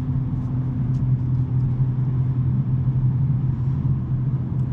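2023 BMW M3 G80's twin-turbo straight-six, fitted with a SuperSprint non-resonated mid pipe, running at a steady cruise with an even low drone and no revving.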